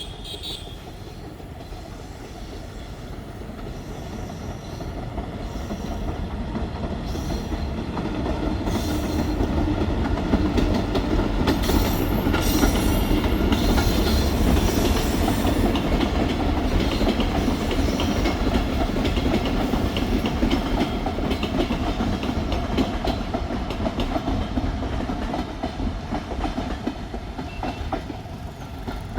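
Train running past on the rails with dense rapid clicking from the wheels, growing louder over the first ten seconds or so, staying loud, and fading near the end.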